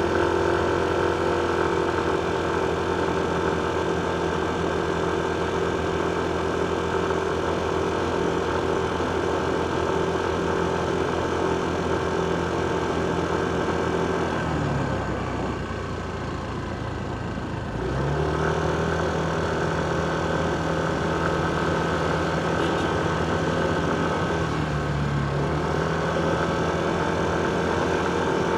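Motorcycle engine running at a steady speed. About halfway through, its note drops toward idle for a few seconds as the rider lets off, then climbs back. It dips briefly once more a few seconds later.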